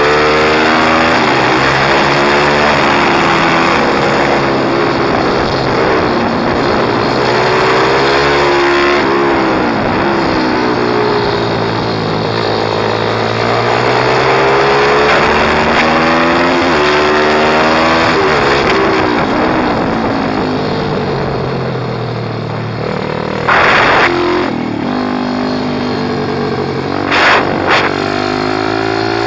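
Pit bike engine revving hard, its pitch climbing and falling again every few seconds. A few short, loud bursts of noise break in near the end.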